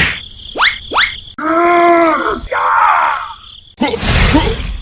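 Two quick rising whistles, then a voice groaning and exclaiming without clear words, and a harsh, loud noisy burst about four seconds in.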